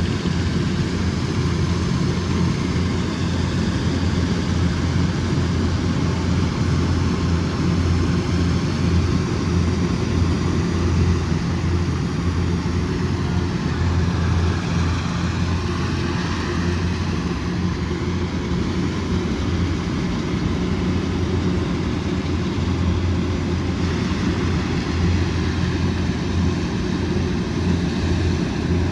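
Kubota DC108X combine harvester's diesel engine running steadily, a low even drone.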